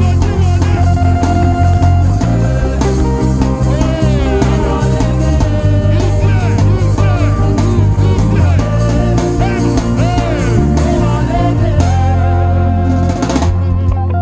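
Live church band playing worship music with a steady drum-kit beat and heavy bass.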